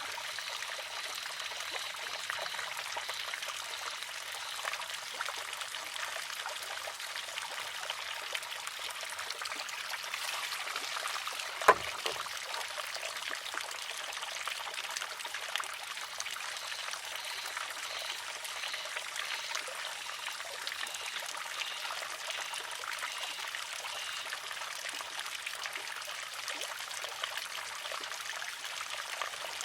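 Water trickling steadily into a wooden shishi-odoshi; about twelve seconds in, its arm tips and strikes the rock once with a sharp clack.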